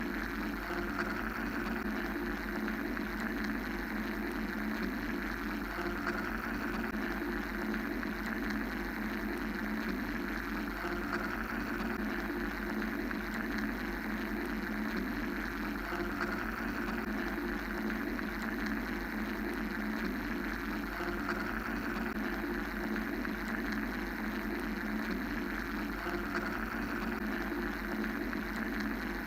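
Continuous mechanical-sounding white noise for sleep and meditation, a steady hum-like drone whose upper band swells gently every few seconds.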